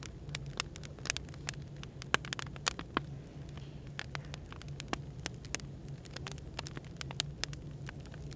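Burning firewood crackling, with many irregular sharp pops, over a steady low hum of background white noise.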